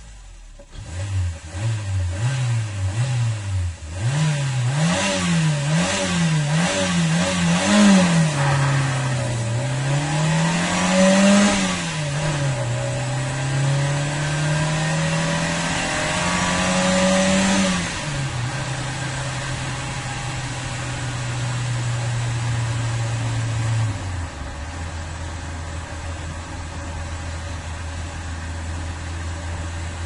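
Renault 19 car engine heard with the microphone under the bonnet, revved by the throttle: a few quick blips, then a run of revs rising and falling about once a second, and two longer climbs. The revs are held up for several seconds, then fall to a fast idle and, later, settle to a lower steady idle.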